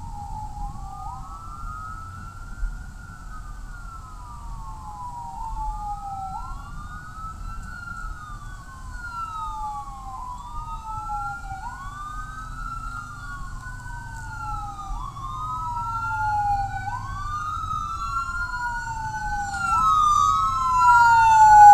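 Sirens of a fire engine and a battalion chief's vehicle wailing together out of step, each rising and falling about every two and a half seconds, getting louder toward the end as they approach, over a low rumble of engines and traffic.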